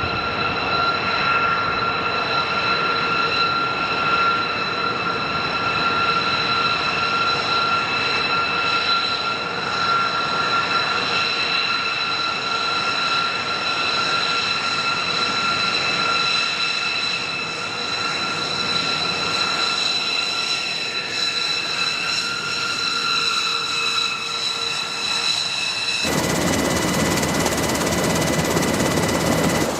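Jet engines of a B-2 Spirit stealth bomber running with a steady roar and a high, even whine. About 26 seconds in, the sound cuts abruptly to a fuller, louder roar.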